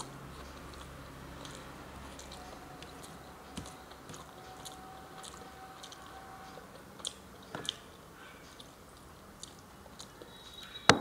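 Close-up chewing and mouth sounds of a person eating rice and vegetables by hand, with many small scattered clicks and a few sharper taps, the loudest near the end.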